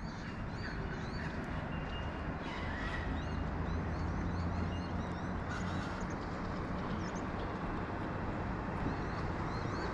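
Birds chirping repeatedly in short high calls over a steady background rumble.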